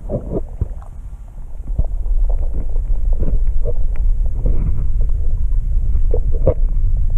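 Muffled low rumble of water moving around a GoPro held underwater, louder from about two seconds in, with short bubbly gurgles and pops.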